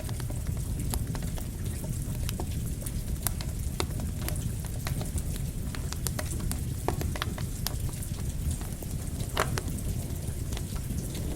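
Campfire crackling, with irregular sharp pops and snaps over a steady low rumble, mixed with rain.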